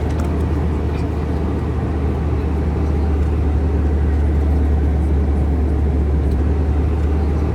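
Steady low rumble of a running vehicle, even throughout with no change in pitch.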